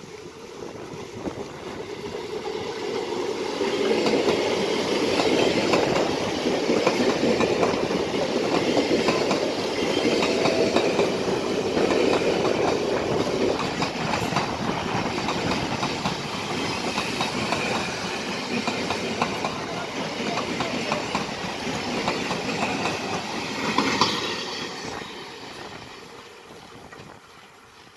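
Indian Railways EMU local train running past at high speed, its wheels clattering over the rail joints. The sound swells over the first few seconds as it approaches, holds steady while the coaches go by, and fades away over the last few seconds as it recedes.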